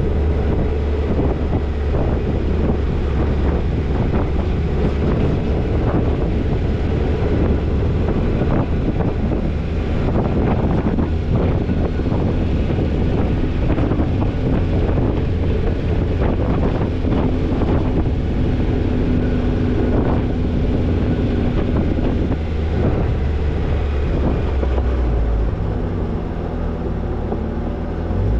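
Toyota Tercel 4WD wagon driving on a rough dirt trail: a steady low rumble of engine and road, with frequent short knocks and rattles from bumps, and wind buffeting the microphone.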